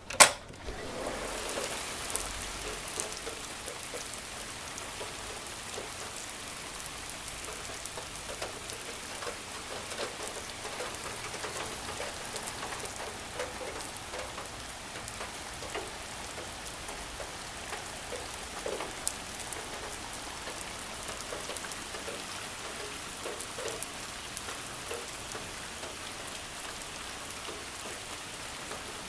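Steady rain falling, with many small drip and splash ticks in it. A single sharp click comes right at the start.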